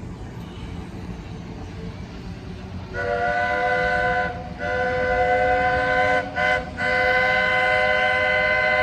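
Steam locomotive Roy O. Disney's chime whistle, the one taken from the Roger E. Broggie engine, sounding several notes at once in a long, long, short, long pattern, the standard grade-crossing signal. A steady low rumble of the train runs under it and is heard alone for the first few seconds.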